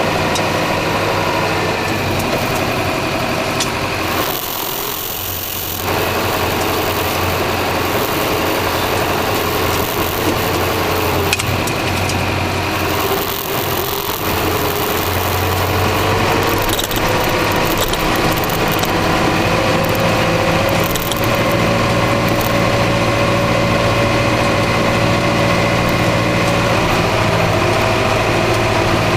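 Massey Ferguson 3075 tractor's diesel engine running steadily while ploughing. The engine sound drops briefly about five seconds in, and its note rises a little in the second half.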